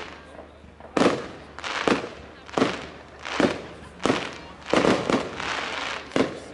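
Fireworks going off in a steady string of sharp bangs, about one a second, each followed by a short fading rumble and crackle.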